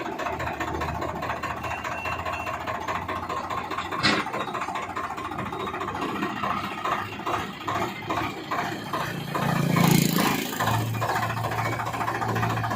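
Swaraj 960 tractor's diesel engine running steadily, with a sharp knock about four seconds in and a brief louder surge near ten seconds.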